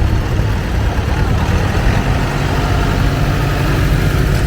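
Antique farm tractor engine running as the tractor drives past, a steady low engine sound.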